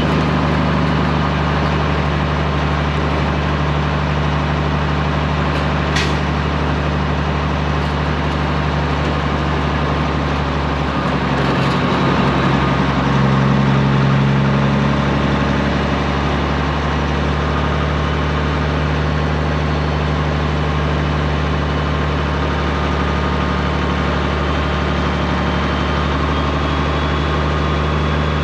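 Straight-piped Peterbilt 389's diesel engine running steadily, its low exhaust note swelling a little about halfway through. One sharp tick about six seconds in.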